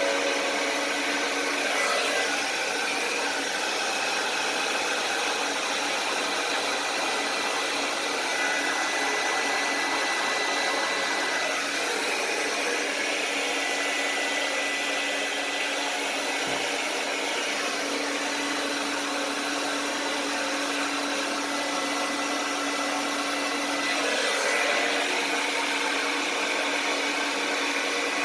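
Hair dryer blowing steadily, a continuous motor hum with a rushing airflow hiss, shifting slightly in tone a few times.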